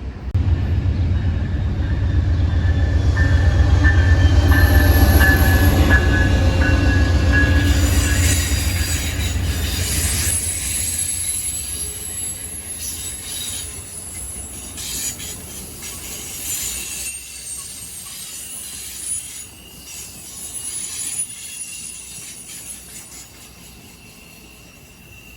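A train passing close by. A heavy low rumble swells over the first few seconds and is loudest around five seconds in. After about ten seconds it fades away, leaving high-pitched wheel squeal and a few rail clicks.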